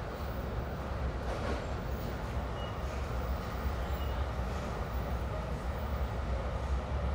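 Steady running noise of a moving Bombardier Multi-Level commuter coach heard from inside the car: a deep rumble of wheels on rail with a hiss above it, swelling briefly about a second in.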